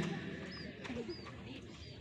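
A few short, faint bird chirps, about three, over the low background hum of a waiting crowd, with a soft low bird call in between.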